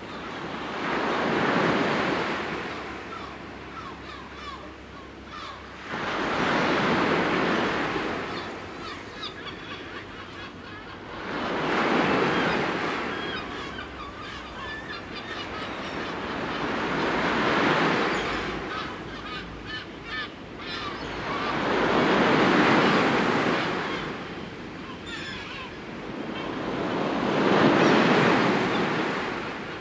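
Sea waves breaking and washing on the shore in slow, even swells, one about every five seconds, six in all.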